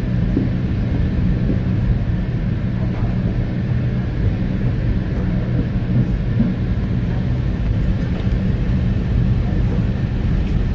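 Steady rumble of a moving Metra commuter train heard from inside a passenger car: the wheels running on the rails over a constant low hum.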